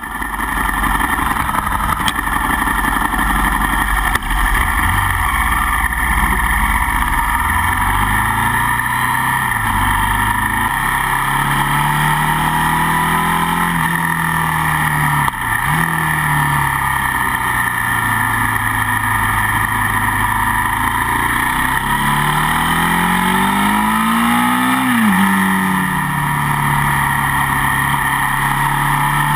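Motorcycle engine running at high revs, its pitch wandering up and down with a steady high whine over it. Near the end the revs climb for a few seconds, then drop back abruptly.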